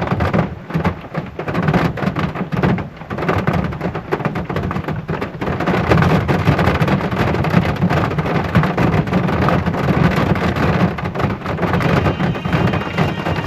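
Heavy rain pelting the truck's roof and body, a dense crackle of drops over a low drumming, heard from inside the cab; it gets heavier about five seconds in.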